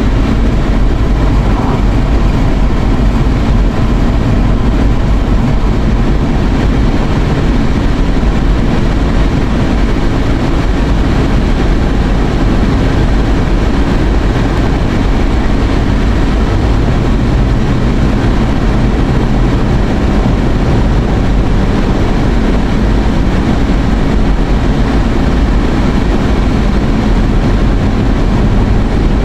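Steady road and engine noise inside a moving car's cabin, a constant low rumble with no breaks.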